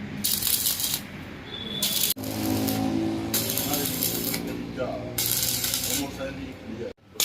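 Electric arc welding in short bursts: each strike of the arc gives a crackling sizzle lasting up to about a second, with pauses between, over a steady low hum.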